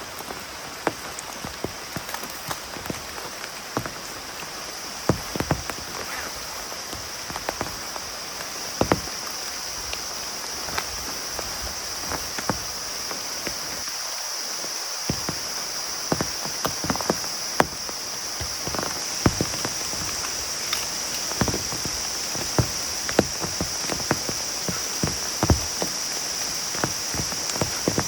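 Heavy rain falling in a steady hiss, with many large drops striking close by as sharp separate taps.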